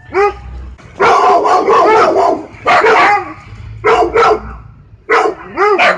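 Siberian husky barking: one bark, then a long run of barks and yelps close together, short groups of barks, and three quick barks near the end.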